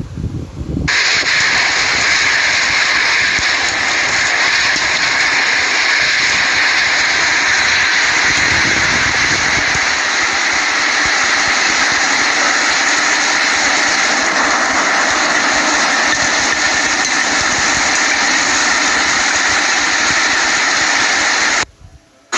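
Heavy rain pouring down in a steady, even hiss. It starts about a second in and cuts off suddenly near the end.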